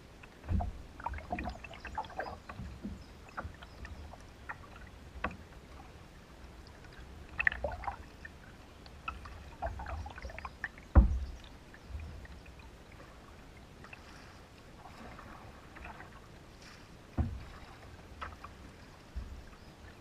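Canoe being paddled: irregular splashes of paddle strokes in the water, with a few sharp knocks, the loudest about eleven seconds in.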